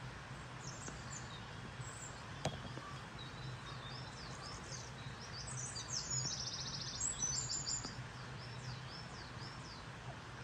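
Several songbirds singing and calling together, with high short notes repeated throughout and a rapid trill about six to seven seconds in, over a steady low hum. A single sharp click about two and a half seconds in.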